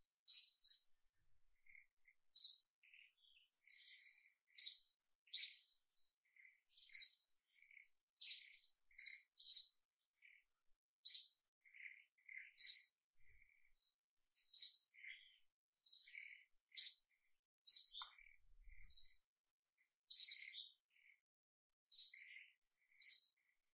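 A bird repeatedly calling short, high chirps, about one a second and sometimes in quick pairs, with fainter, lower chirps in between.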